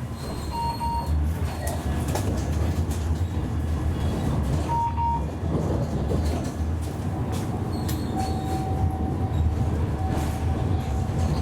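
Siemens Avenio tram running on rails: a steady low rumble of wheels and running gear, with scattered clicks. Two short high tones are heard about a second and five seconds in, and a longer steady tone from about eight seconds in.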